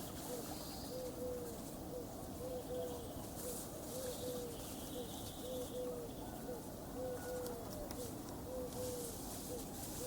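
Pigeons cooing, a low three-note phrase, one short note and two longer ones, repeated over and over about every second and a half.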